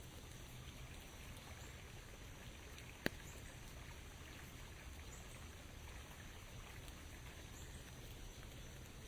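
Light rain falling as a soft, steady hiss over a low rumble, with one sharp tap about three seconds in.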